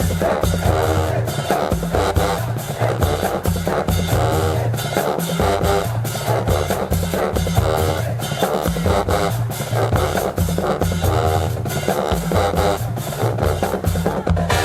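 HBCU marching band playing, with snare and bass drums driving a short, repeating brass riff over a low bass line.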